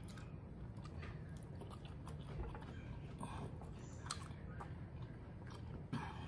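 A person chewing a mouthful of Chinese takeout with the mouth closed, close to the microphone: soft wet chewing with small smacking clicks, one slightly louder near the end.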